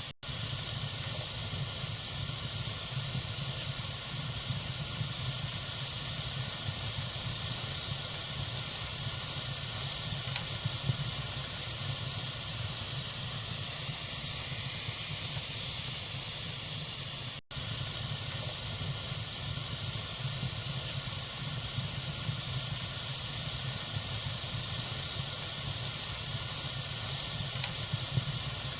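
Fire burning in a fireplace: a steady hiss with a low rumble under it and a few faint crackles. The sound drops out for an instant twice, once just after the start and once about two-thirds of the way through.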